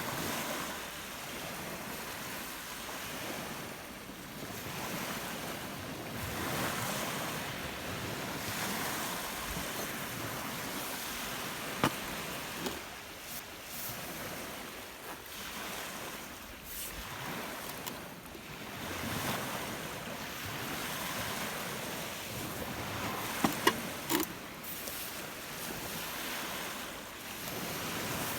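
Rough lake waves breaking and washing on the shore of Lake Biwa in strong wind, surging in and out every few seconds. A few sharp clicks stand out, one near the middle and a quick cluster of three about two thirds through.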